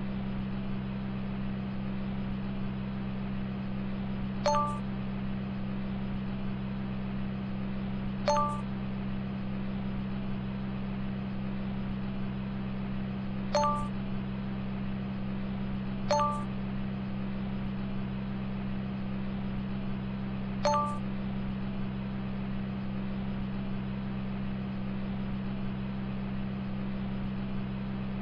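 Steady low drone of a car running, with a short electronic ding five times at irregular intervals. Each ding is a click and a brief chord of tones.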